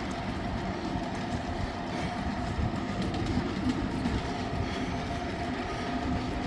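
Ride-on miniature railway train running along the track, heard from on board: wheels rumbling and clicking over the rails with a faint steady whine.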